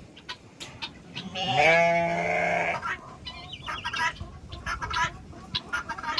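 Chickens clucking and chirping in short calls, with one loud, drawn-out animal call lasting about a second and a half, starting about a second in.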